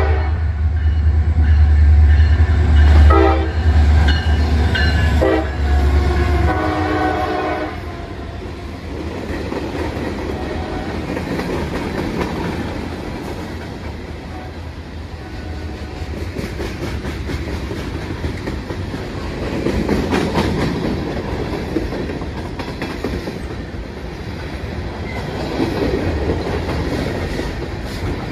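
CSX diesel freight locomotive sounding its multi-chime air horn in several blasts, the last a long one, as it comes through a road crossing, over the low throb of its diesel engine. After about 8 seconds the horn and engine give way to the rolling rumble of freight cars passing close by, with the clickety-clack of wheels over the rail joints.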